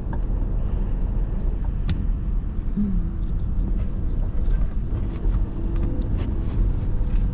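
Steady low rumble of a car or truck's engine and tyres while it drives slowly towing a loaded trailer, with a few faint light clicks or rattles.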